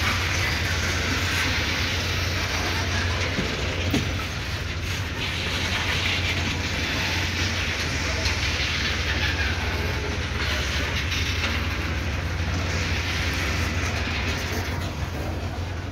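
Loaded bauxite ore gondola wagons of a freight train rolling past: a steady rumble and rattle of steel wheels on the rails, with one sharp clank about four seconds in.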